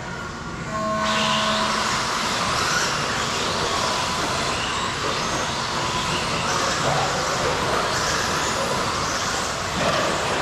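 A pack of 1/10-scale RC stadium trucks racing around the track, their motors and tyres making a dense, steady noise that rises suddenly about a second in.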